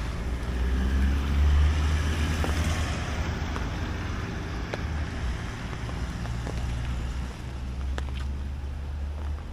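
Steady rain, with wind rumbling on the microphone and scattered sharp ticks of drops hitting the device. The hiss swells for a couple of seconds about a second in.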